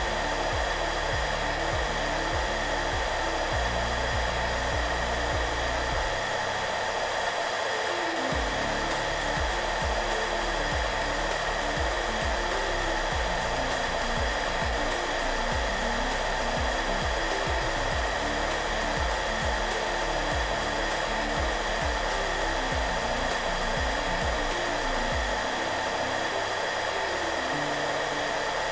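Hair dryer blowing with a steady, even whoosh and a constant motor whine, with soft background music underneath.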